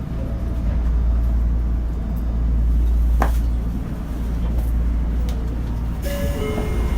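Tokyo Metro 02 series subway train, heard from inside the car: a steady low rumble of the train on the track, with a short squeal about three seconds in. Near the end a hiss sets in along with a few short, steady tones.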